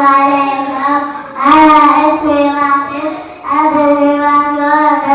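Child singing unaccompanied in long held notes, in phrases of about two seconds with short breaks between them.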